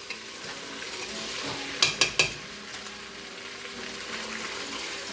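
Chicken and vegetables frying in oil in a hot pan, a steady sizzle, with a few sharp clinks about two seconds in.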